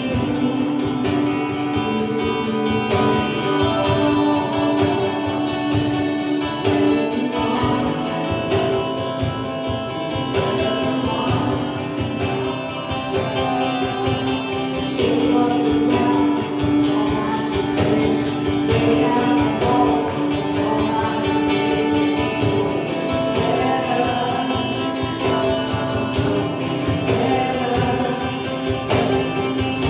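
Gospel worship music with singing, a choir or group of voices holding long notes over a steady band accompaniment that includes guitar.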